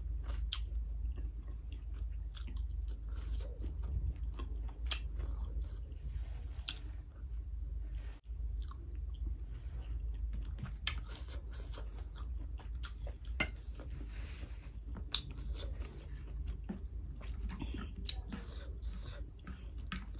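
A person chewing and biting mouthfuls of rice and meat close to the microphone, with many short wet clicks and crunches over a low steady hum.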